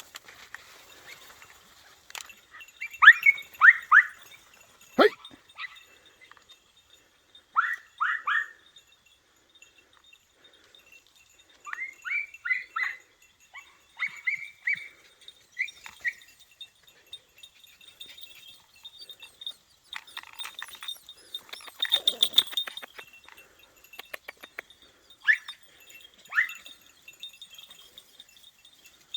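Podenco puppies giving tongue while hunting rabbit: short, high yelps in quick runs of two to four, several times over. About two-thirds of the way through there is a stretch of rustling noise.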